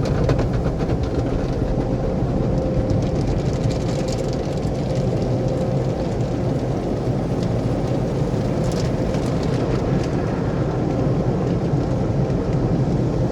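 Automatic tunnel car wash working over the car, heard from inside the cabin: a steady, loud rumble and hiss of the wash machinery and water on the car's body, with a few brief sharper spatters.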